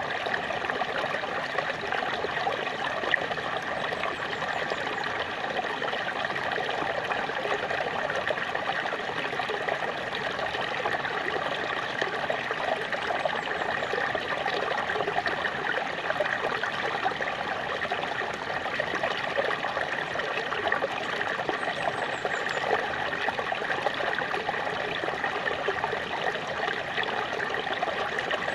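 Small waterfall splashing and trickling steadily, an even rush of falling water with no pauses.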